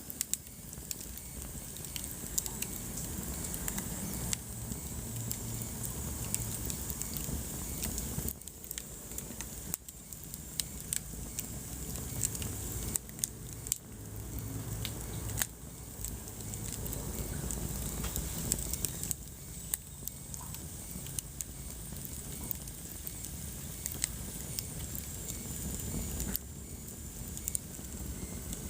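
Wood fire burning in a fireplace: a steady low rumble of flames with frequent sharp crackles and pops. The background level drops and rises abruptly a few times.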